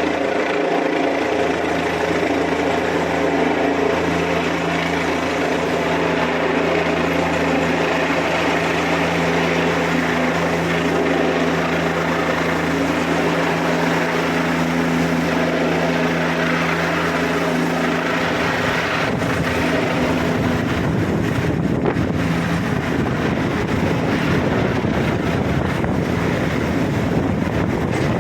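Helicopter engine and rotor noise, loud and steady, with a low hum and several steady tones. About two-thirds of the way through the tones drop out and it becomes a rougher rushing noise.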